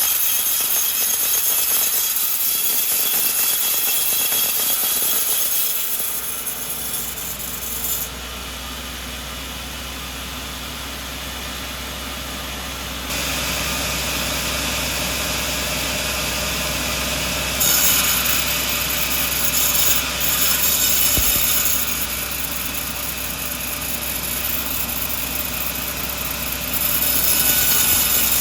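Sawmill blade cutting through a coconut log, a loud hissing rasp of the cut, which drops away about six seconds in to the steady hum of the saw's motor running, then loud cutting again partway through and near the end.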